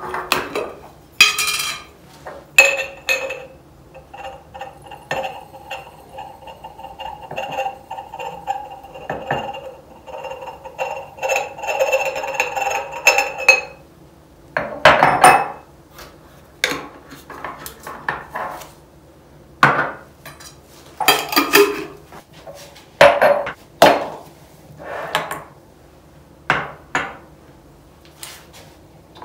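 Glass spice jars and their lids clinking and knocking as they are handled and set down, a series of separate sharp clinks. Between about four and fourteen seconds in, a steady ringing tone runs under the clinks, then stops.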